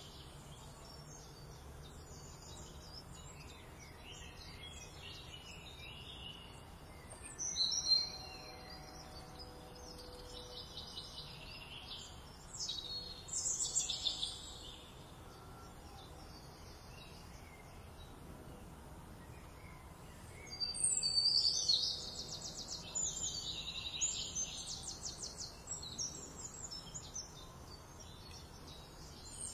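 Songbirds chirping and singing in scattered phrases over a faint steady outdoor hiss. The busiest passage, with quick trills, comes about two-thirds of the way through.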